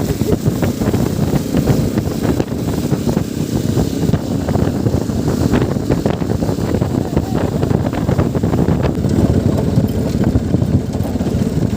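Motorcycle riding along, its engine's low rumble largely drowned by heavy wind buffeting on the microphone.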